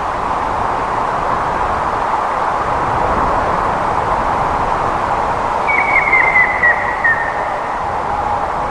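Grey-headed woodpecker calling: a series of about eight short whistled notes, falling slightly in pitch, a little under six seconds in, over a steady rushing background noise.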